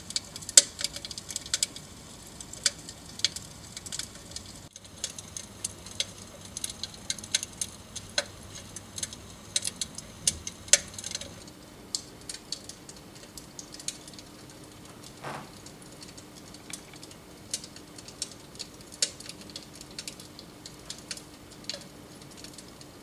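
Dimplex Opti-V electric fireplace's simulated log-fire crackle: irregular sharp pops and crackles, several a second. A faint steady hum comes in about halfway through.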